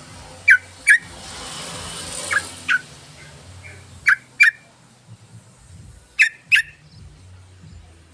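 Yellow-vented bulbul (trucukan) calling: loud, short notes in pairs, each note dropping quickly in pitch, with the pairs repeating about every two seconds. A soft hiss rises and fades between the first two pairs.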